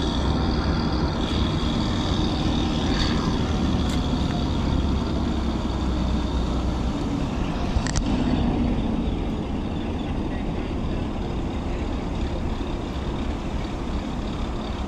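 Steady rushing storm noise with a heavy low rumble of wind buffeting the camera microphone, which eases about seven seconds in. A single sharp click comes about eight seconds in.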